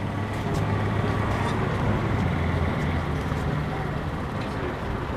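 A motor vehicle engine idling: a steady low hum that is a little louder from about half a second to four seconds in.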